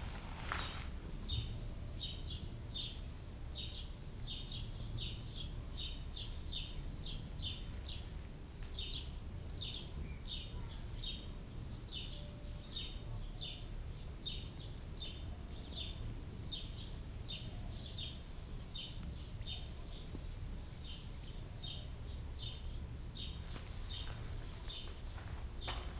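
A bird chirping over and over, a few short chirps a second without a break, over a steady low background rumble.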